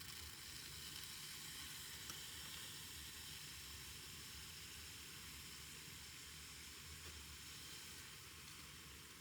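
A faint, steady hiss that eases off a little toward the end.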